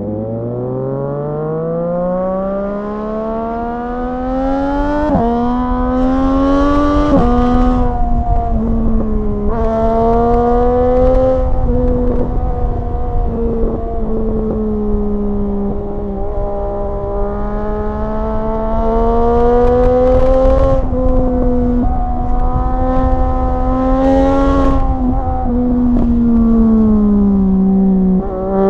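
Triumph motorcycle engine and exhaust pulling hard through the gears, its pitch climbing steadily with three quick shifts in the first ten seconds. It then settles into a cruise, rising and falling gently over a low rumble of wind.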